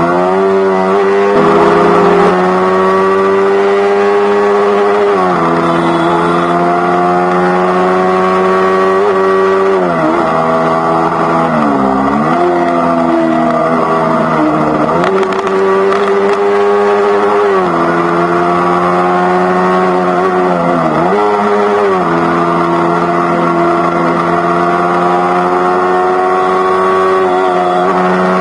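Yamaha R3 parallel-twin engine through an Akrapovic GP slip-on exhaust, running at steady cruising revs. The pitch dips briefly and picks back up several times as the throttle is eased off and reopened.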